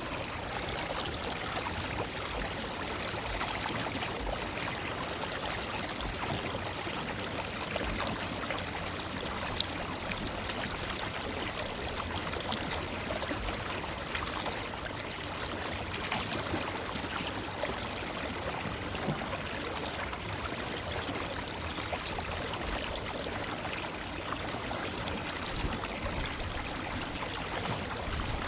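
River water flowing steadily over rocks in a forest stream, a constant rushing and babbling with small splashes.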